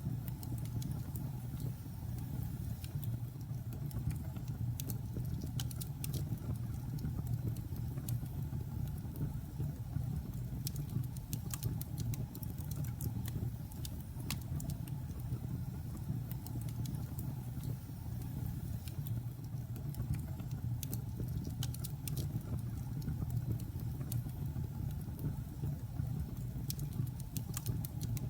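Wood logs burning in a fireplace: a steady low rumble of the fire with frequent small, sharp crackles and pops scattered irregularly throughout.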